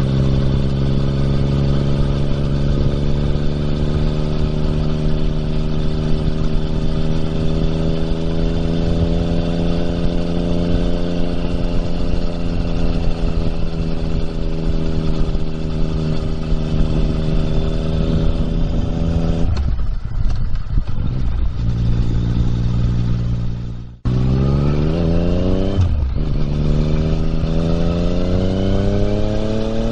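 Yamaha MT-09's three-cylinder engine through an Akrapovič exhaust, under way at a steady cruise with the engine note drifting slightly. About two-thirds through the throttle closes and the note drops. After a short break the bike accelerates, the pitch rising with quick dips between gear changes.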